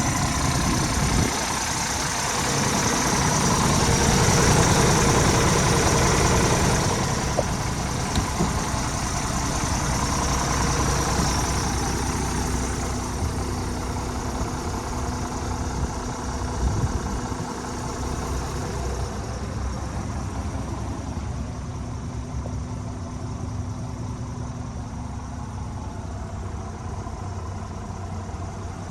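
Scania R450 tractor unit's 13-litre straight-six diesel idling steadily. It is louder around five seconds in and quieter through the second half, with a few faint clicks.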